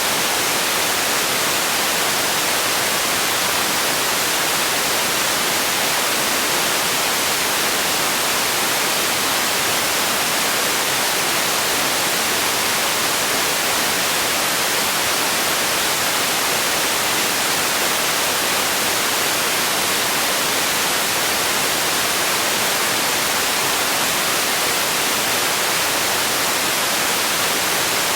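Steady, unchanging white noise: an even hiss with most of its energy in the highs.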